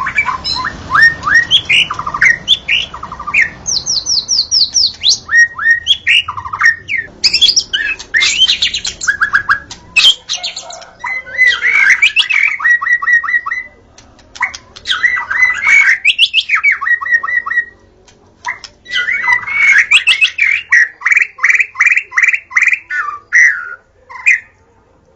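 White-rumped shama (murai batu) singing: a loud, varied song of rapid whistled phrases, fast trills of repeated notes and harsh chattering notes, with short pauses between bursts.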